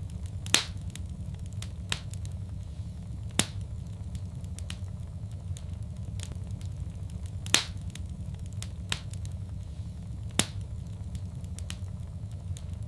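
Wood fire crackling in a fireplace: a steady low rumble of burning with sharp pops every second or two, the loudest just after the start and another a little past the middle.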